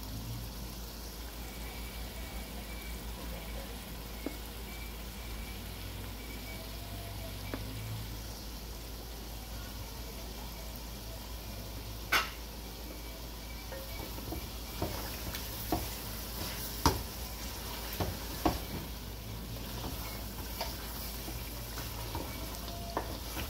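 Thick pigeon curry sizzling and bubbling in an aluminium pan on a gas stove. From about halfway through, a wooden spatula stirring it gives sharp knocks and scrapes against the pan, the loudest about halfway in.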